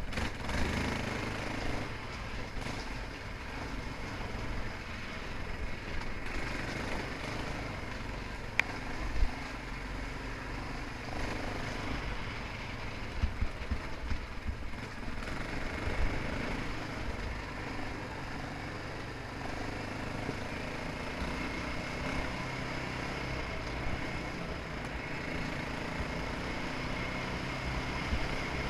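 Dirt bike engine running steadily, with a low rumble and a few sharp knocks in the middle stretch.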